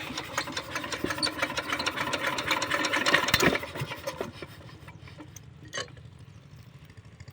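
Small single-cylinder diesel engine of a 5 hp water pump running with a fast, even clatter. About three and a half seconds in it drops to a quieter, steady drone.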